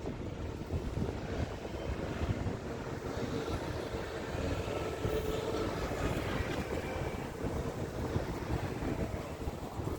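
Steady low rumble of buses and road traffic, with wind buffeting the microphone.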